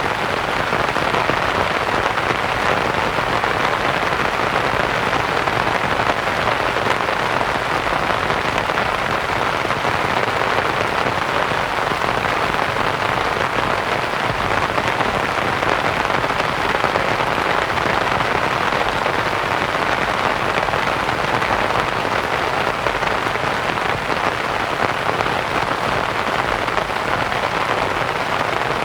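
Steady rain pattering on a canvas tent, blended with white noise into an even, continuous hiss.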